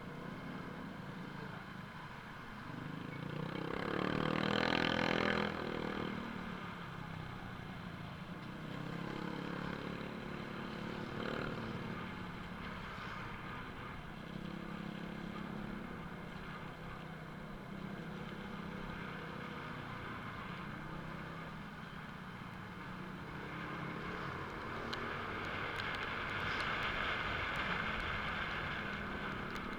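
Motor vehicle engines running steadily, with a vehicle passing loudly about four seconds in and a rise of hissing noise near the end.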